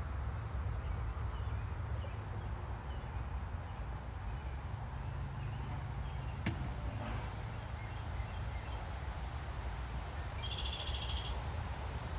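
Outdoor garden ambience: a steady low rumble with a single sharp click about halfway through. About ten seconds in, a bird gives a short call of rapid high notes.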